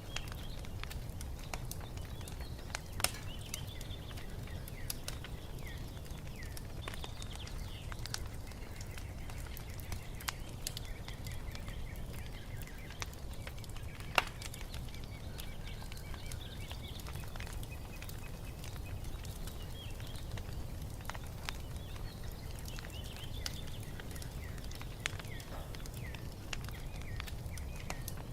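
Wood fire crackling in a fireplace: scattered sharp pops over a low steady rumble, with two louder pops, about three seconds in and near the middle. Small birds chirp softly throughout.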